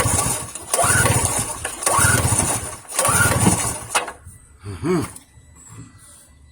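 Small single-cylinder generator engine being pull-started four times, about a second apart, each pull whirring up as the recoil starter spins it; the engine cranks but does not fire.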